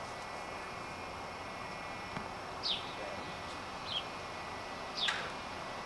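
A songbird calling: three short, high, whistled notes that each fall in pitch, a second or so apart, the last the loudest, over a steady background hiss.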